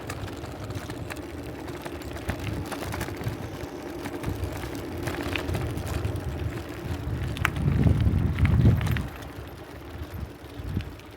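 A vehicle engine passing, building to its loudest about eight seconds in and then fading.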